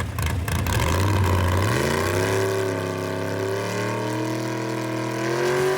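Race car engine running low and steady, then rising in pitch about two seconds in as the car pulls away, and holding a high, steady note.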